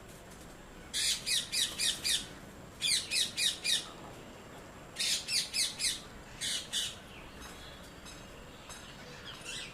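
Ringneck parakeets squawking in quick runs of shrill, sweeping calls: three runs of about five calls each, then a pair, then fainter calls near the end.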